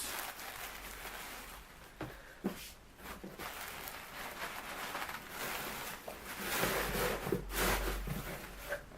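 Hands rummaging through polystyrene packing peanuts in a shipping box, a rustling that comes and goes, with a few sharp clicks about two seconds in and louder rustling near the end.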